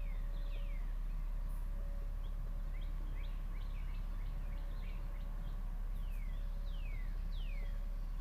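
Several birds calling with short, quick falling whistles over a steady low rumble of outdoor noise, with a faint low note repeating now and then.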